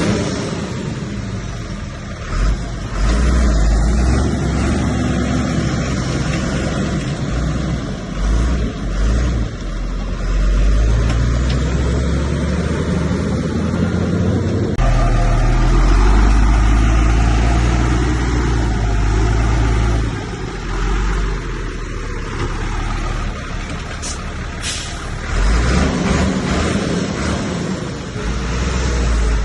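Heavy diesel earthmoving machinery running and working under changing load, a deep rumble that rises and falls. Two short high hisses come about three-quarters of the way through.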